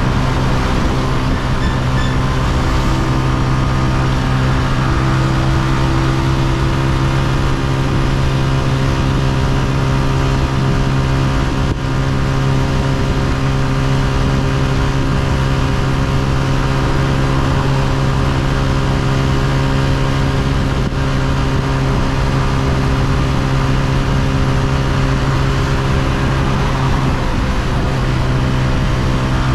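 Honda CG125's single-cylinder four-stroke engine running under way at a steady, even pitch.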